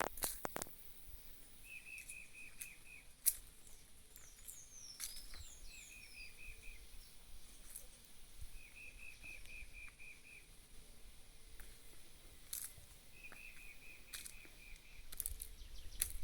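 A bird calling outdoors: four times it repeats a short run of about six quick, evenly spaced notes, a few seconds apart. Some higher sliding chirps come in between, about four to five seconds in.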